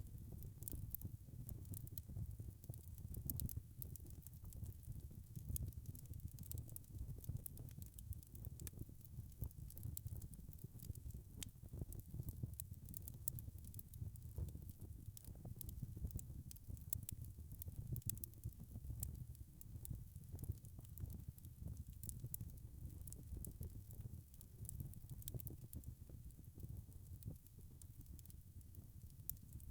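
Wood fire burning in a fireplace: frequent small, sharp crackles and pops over a steady low rush.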